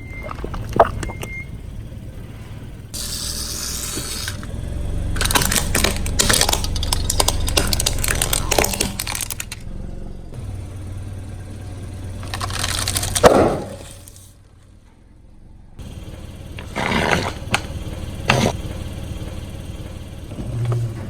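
A car tyre rolling over and crushing brittle objects, with sharp cracks and a long stretch of dense crackling and snapping, over a low rumble of the car. Several separate crushes come one after another, with a short quiet gap in the middle.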